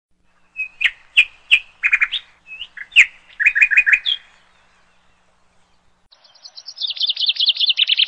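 Small songbird singing: a string of short, sharp chirps, a pause of about two seconds, then a fast trill of quick repeated notes from about six seconds in.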